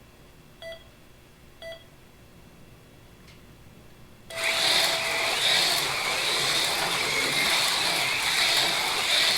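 Race start countdown beeps about once a second, then a longer start tone about four seconds in as two AFX Mega G+ HO slot cars take off, their small electric motors whining steadily around the track.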